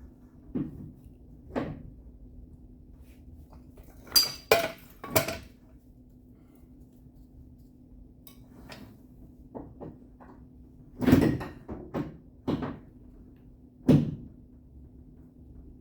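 Irregular sharp knocks of a body hammer on the sheet-metal quarter panel of a pickup truck, a dozen or so strikes in small groups, some with a brief metallic ring, over a steady low hum.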